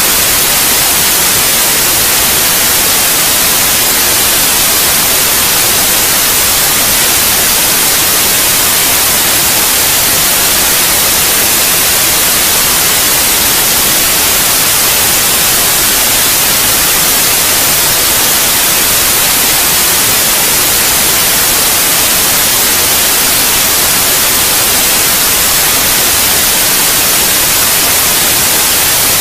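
Steady white noise: an even, unbroken hiss with no changes, strongest in the high treble.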